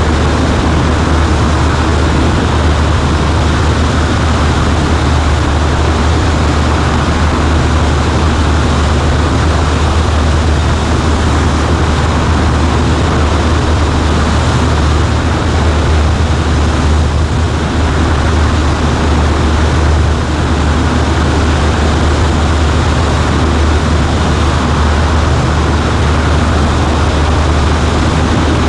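Cessna 140A light aircraft's engine and propeller running steadily in flight: a loud, unchanging low drone under a wide rush of engine and wind noise.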